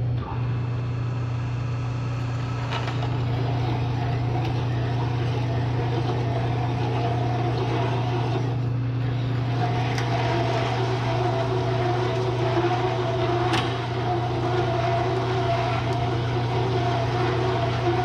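Bridgeport milling machine running with a hole saw cutting into steel tube: a steady motor hum under a gritty cutting noise. The cutting dips briefly near the middle, then comes back steadier and higher, with a sharp tick now and then.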